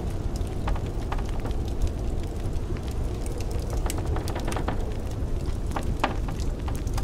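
Wood fire crackling in a fireplace, with frequent irregular pops and snaps, over a steady low rumble of blizzard wind.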